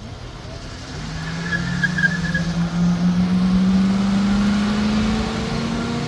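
Two second-generation Pontiac Firebird V8s launching side by side on a drag strip, their engines rising in pitch and growing louder as they accelerate past. A short high tyre squeal comes about one and a half seconds in.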